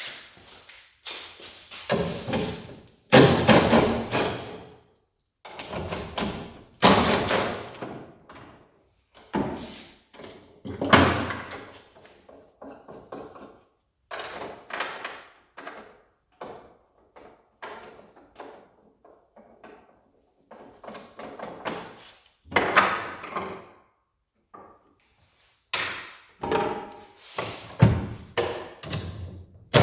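Clunks, thuds and rattles of a car's rear seats and plastic trim being worked loose and pulled out, coming in irregular bursts separated by short silences.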